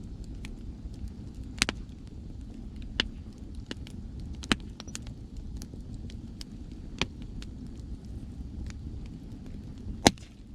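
Wood bonfire crackling, with sharp irregular pops, the loudest near the end, over a steady low rush of sea waves.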